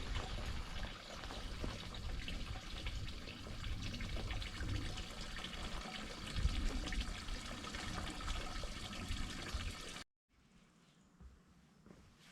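Running, splashing water, steady for about ten seconds and then cut off abruptly.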